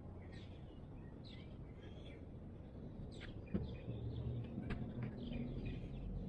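Outdoor background of small birds chirping over a steady low hum, with a single sharp knock about three and a half seconds in.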